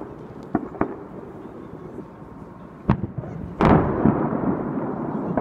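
Aerial firework shells bursting at a distance: a few faint pops, a sharp bang a little under three seconds in, then a louder, heavy boom that rolls and echoes away slowly.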